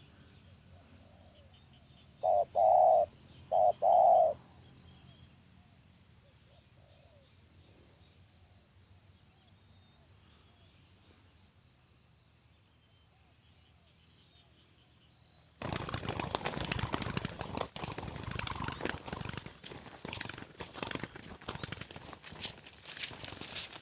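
Spotted dove cooing: two short, loud coos about two to four seconds in. From about sixteen seconds on comes a loud, continuous rustling and wing-flapping clatter.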